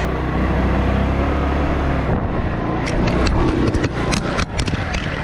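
Motorcycle running on the road with a steady rumble. In the second half a quick run of sharp knocks and rattles comes through.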